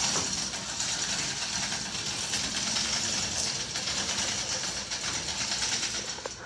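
A small motorised tool running steadily with a fast, even buzz, then stopping shortly before the end.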